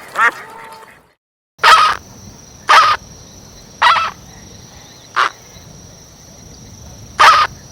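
A farmyard bird giving short, sharp calls, five of them spaced a second or more apart, over a steady high-pitched insect drone. A brief silent break comes about a second in, just before the calls begin.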